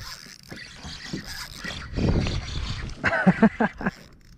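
A man's short vocal sounds, a few quick pitched bursts about three seconds in, over a low rumbling noise and a steady hiss.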